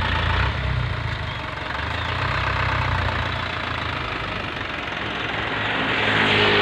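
Dump truck's diesel engine running steadily with a low rumble and a clattering note.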